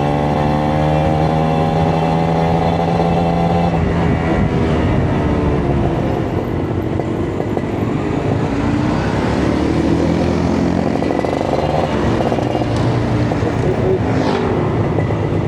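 Kawasaki Ninja 150 RR's two-stroke single-cylinder engine running under way. Its note rises slightly for about four seconds, then drops and rises and falls in pitch as the throttle changes.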